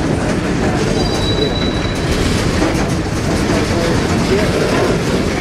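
Freight train of open-top coal cars rolling past, a steady rumble of steel wheels on rail with clicking over the joints. A brief high wheel squeal comes in about a second in.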